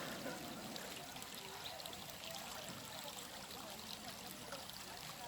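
Water running steadily, like a small stream trickling.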